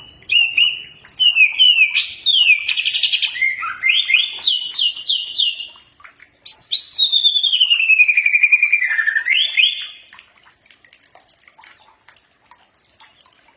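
Cucak ijo (green leafbird) singing a varied song of clear whistled phrases: a rapid trill, a run of quick downward-sweeping notes and a long falling whistle, stopping about ten seconds in.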